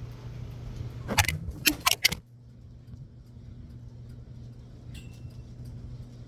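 A quick run of about five sharp clinks and rattles of small hard objects knocking together, just over a second in, over a steady low hum.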